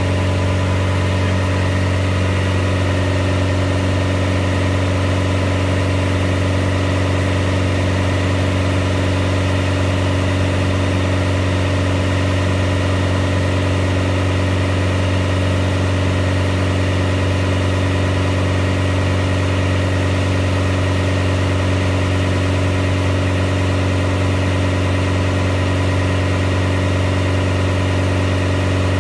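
MegaSquirt-managed car engine running under load on a chassis dyno, held at a steady speed near 2,800 rpm (about 40 mph) for ignition timing adjustments. It gives a constant deep drone whose pitch does not change.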